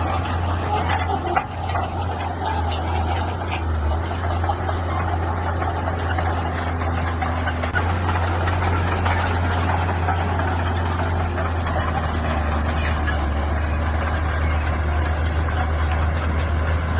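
Diesel engine of heavy earthmoving machinery running steadily under load, with scattered clinks and rattles over it.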